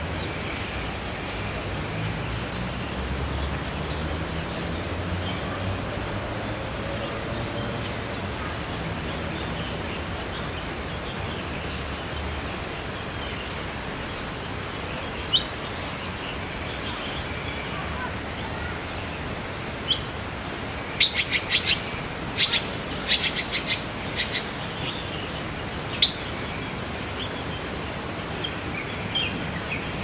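Birds calling: a few short, high chirps scattered through, and a quick run of sharp clicking calls about two-thirds of the way in, over a steady hiss of background noise.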